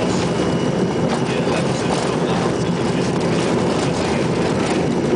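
Steady loud rumble and rush inside the cabin of an Embraer ERJ-145 regional jet during takeoff, from its two rear-mounted Rolls-Royce AE 3007 turbofans and the airflow over the fuselage.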